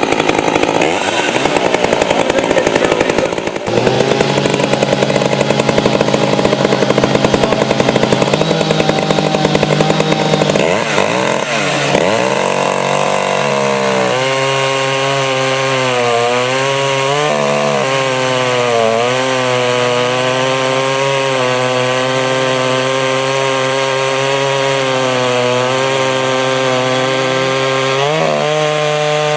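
Rebuilt Poulan 5200 two-stroke chainsaw running: a rough, uneven sound at lower revs for about the first twelve seconds, then held at high revs with a steady whine that wavers slightly in pitch.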